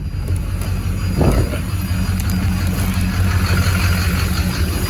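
Pickup truck's engine running at low speed as it drives: a steady low hum, with a brief low thump about a second in.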